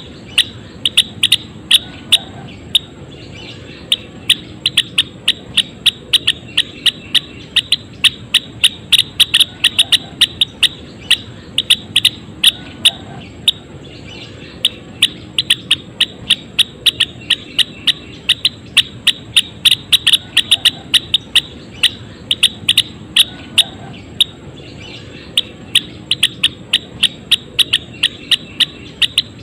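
Gelatik wingko bird calling in a fast, steady series of short, sharp, high chirps, about three to four a second, with a few brief pauses, as a lure recording to stir caged birds to sing.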